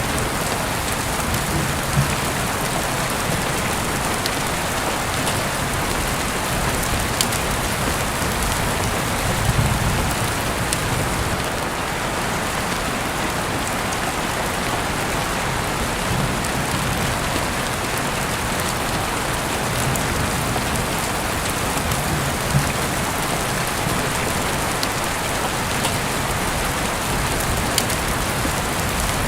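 Heavy rain falling steadily: a dense, even hiss with scattered sharp ticks of single drops and a few brief low rumbles.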